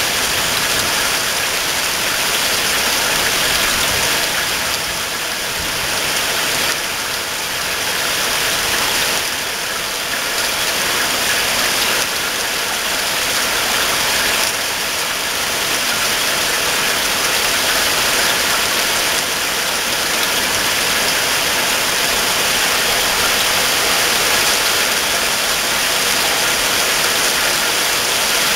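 Rain falling steadily, a dense, even hiss that dips slightly now and then.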